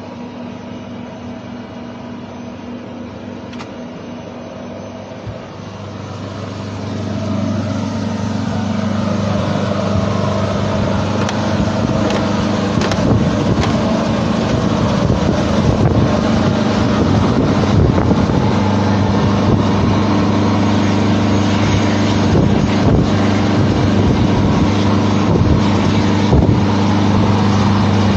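Engine noise with a steady low hum and a rushing roar that builds from about six seconds in and then holds loud.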